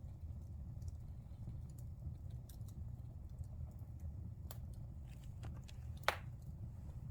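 Wood fire burning in a fireplace: a low steady rumble of flames with scattered crackles and pops, and one sharper pop about six seconds in.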